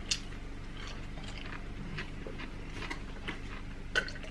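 A scattering of soft clicks and taps of cutlery and dishes handled during a meal, over a steady low hum.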